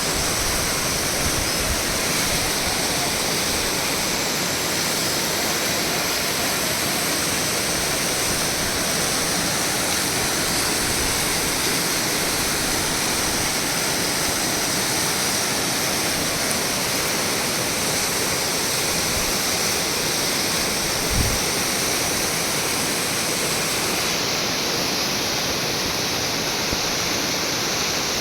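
Waterfall pouring, a steady rush of falling water without a break.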